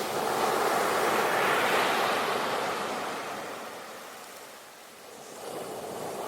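Ocean waves breaking and washing on a shore: a surge of surf peaks about two seconds in, ebbs away, and the next wave begins to build near the end.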